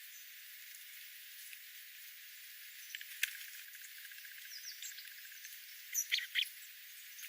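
Wild birds calling: a few short high chirps in the middle and two louder chirps about six seconds in, over a steady hiss. A sharp click and a brief rapid rattle come just after three seconds.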